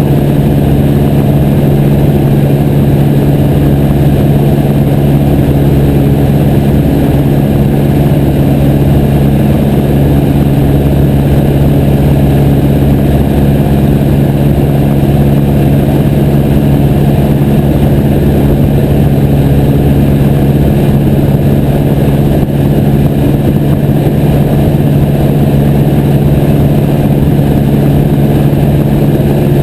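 Light aircraft engine and propeller running at a steady speed, a loud even drone with no change in pitch.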